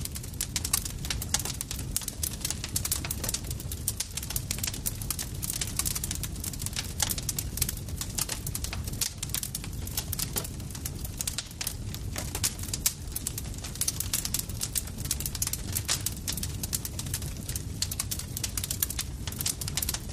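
Campfire crackling: many small irregular pops and snaps over a steady low rumble.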